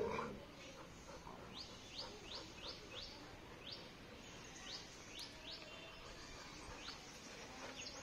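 Faint birds chirping: short, high, downward-slurred notes, some in quick runs of two or three, scattered irregularly. Right at the start, a brief low sound.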